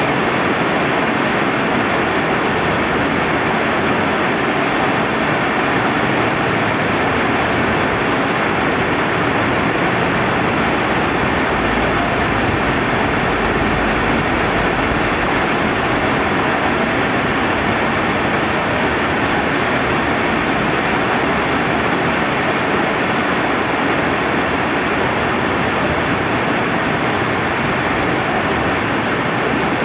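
Steady rain falling beside a flowing river: an even, unbroken hiss of rain and rushing water.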